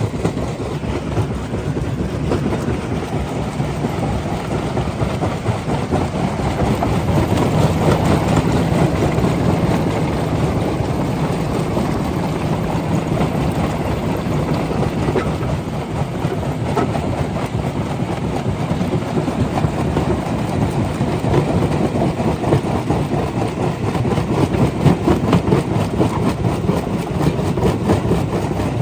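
Rock crusher running under load, a continuous dense clatter of stone over a heavy machine rumble.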